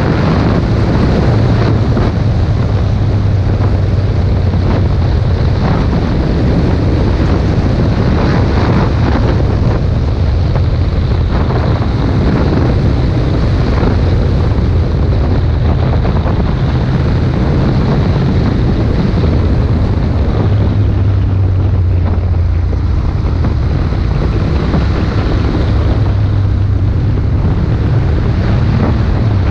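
Wind buffeting the microphone of a moving motorcycle, a Ducati Monster 1200, with its V-twin engine note underneath swelling and easing several times as the throttle changes.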